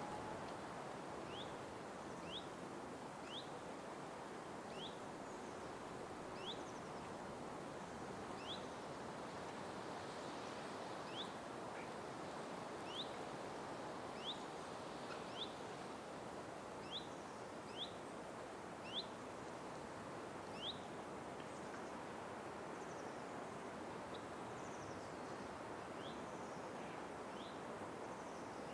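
Forest ambience: a steady hiss with a bird repeating a short rising chirp about once a second for some twenty seconds, then fainter, sparser chirps near the end.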